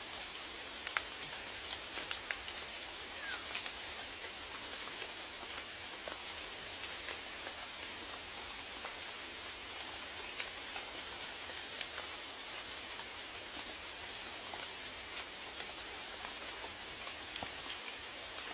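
Steady rain, an even hiss with scattered individual drops ticking sharply on a hard surface.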